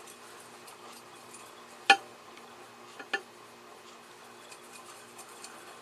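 A few sharp clicks of painting tools knocking on a palette: one loud click about two seconds in and two smaller ones close together about a second later, over a faint room hum.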